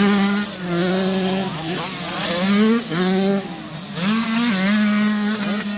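Motocross bikes racing, engines revving up and dropping in pitch again and again as they shift through the gears.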